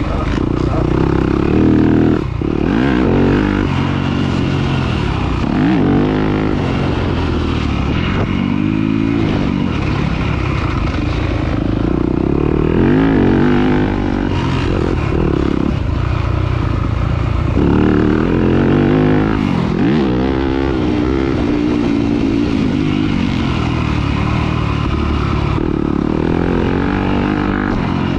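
Off-road racing dirt bike's engine revving hard and backing off over and over as it is ridden round the track, its pitch climbing and dropping every second or two.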